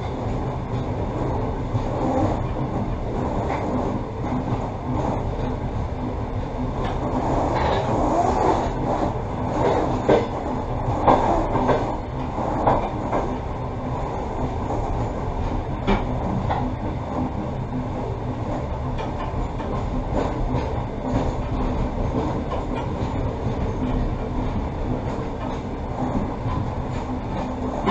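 Passenger train running along the track: a steady rumble of wheels on rails, with a few louder knocks between about 8 and 13 seconds in.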